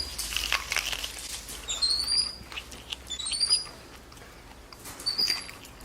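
Pet monkeys giving short, high, rising squeaks in quick little runs, several times, mixed with light clicks.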